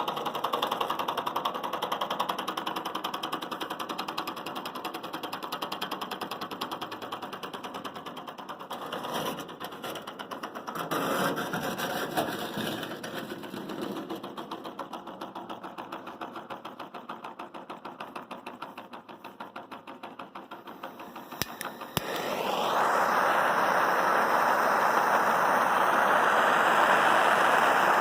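Small all-metal Stirling engine running with a fast, even mechanical clatter that grows quieter over the first twenty seconds. About three-quarters of the way in, a louder steady rushing noise starts abruptly and continues.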